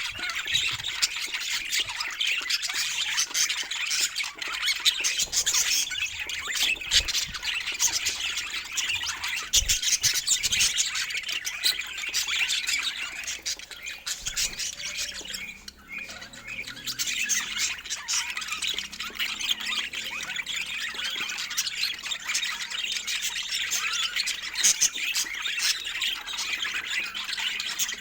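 A group of budgerigars chattering and squawking without a break, a dense mix of quick warbles and chirps, with a short lull about halfway through.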